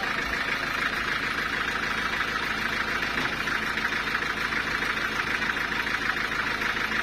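Sawmill saw machinery running steadily, an even mechanical drone with no break.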